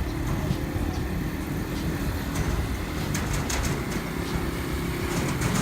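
Small vehicle engine running steadily while being driven, with a few sharp clicks and knocks over it.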